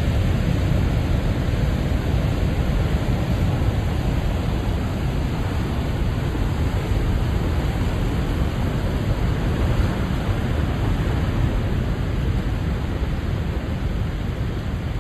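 Ocean surf at high tide: a steady, rumbling wash of waves with no single distinct crash, easing slightly toward the end.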